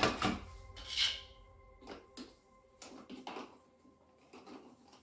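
Handling noises: a string of short clicks, knocks and rubs, the sharpest near the start and about a second in. A faint steady tone fades out just after the start.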